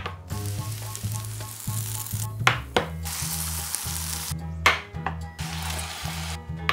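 Food sizzling and frying in a hot pan, in three stretches each broken off by a sharp knock, over background music with a low, steady bass line.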